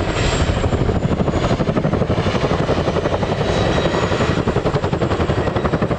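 Boeing CH-47 Chinook tandem-rotor helicopter flying a display, its rotor blades chopping in a steady rapid beat over the engine noise.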